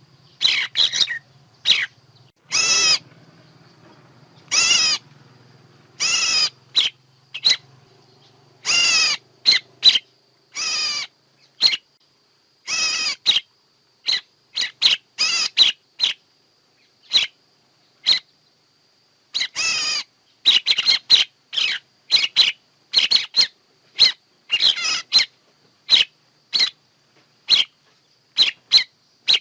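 Bird calls from a bird-trapping lure recording, coming thick and fast: many short high chirps mixed with several longer, harsh calls, mostly in the first half. A faint low hum sits under the first ten seconds or so.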